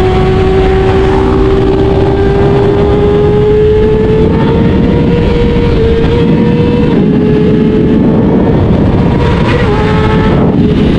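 A 2024 Kawasaki ZX-6R's 636 cc inline-four engine running at high revs, its pitch climbing slowly with small steps about seven and ten seconds in. A heavy rush of wind noise sits under it.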